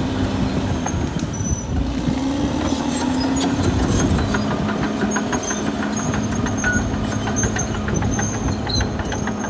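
Caterpillar D6R XL bulldozer's diesel engine running under load, its pitch rising briefly about two seconds in. From about three seconds on there is a quick, steady clicking and clanking of the steel tracks.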